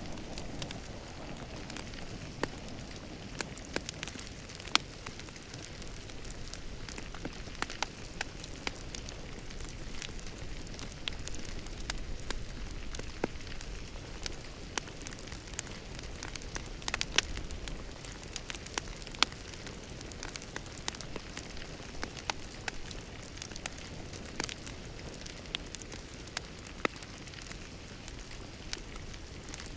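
Fire crackling in a fireplace: a steady soft hiss with frequent sharp pops and snaps at irregular intervals.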